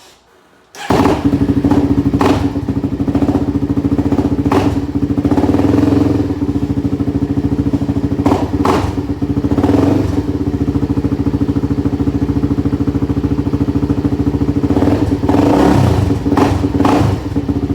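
2005 Polaris Predator ATV engine with an aftermarket Big Gun exhaust starting about a second in and running loudly, with several short throttle blips. Its owner says it is sounding kind of weird and does not know why.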